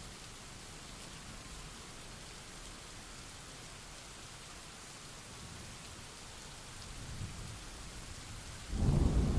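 Steady rain falling with a low rumble of thunder building near the end, then a sudden loud crack of thunder in the last half second.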